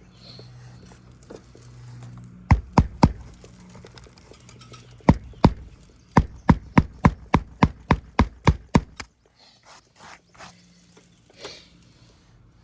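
Hammer strikes nailing a replacement asphalt shingle onto a roof. There are three sharp knocks, then two, then a steady run of about ten blows at two to three a second, which stops about three seconds before the end.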